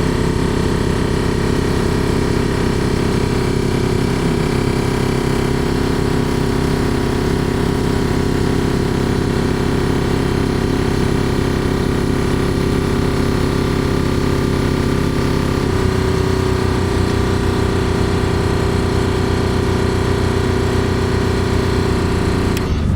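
Truck engine running steadily. Its note changes about two-thirds of the way through, and it cuts off at the very end.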